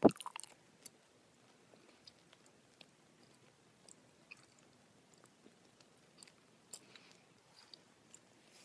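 Gummy bears being chewed right at the microphone: a loud click right at the start and a quick run of sticky clicks, then scattered faint mouth clicks and lip smacks.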